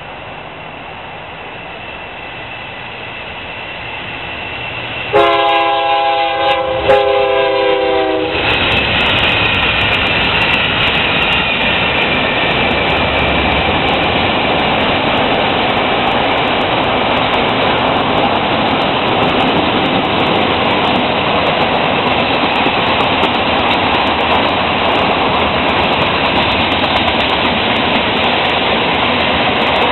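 Freight train growing louder as it approaches, then its locomotive horn sounds about five seconds in: two blasts with a short break between, about three seconds in all. The train then runs past close by with a steady loud rush of cars on the rails.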